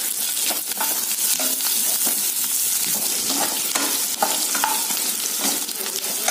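Chopped onions, green chillies, curry leaves, ginger and cashews sizzling in hot oil in a pan with turmeric, a steady hiss with frequent short clicks of a spatula stirring and scraping.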